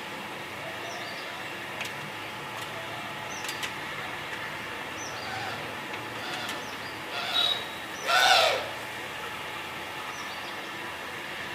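Birds chirping with short repeated high calls over a steady background hum, a few soft clicks, and a louder call falling in pitch about seven seconds in and again, louder, just after eight seconds.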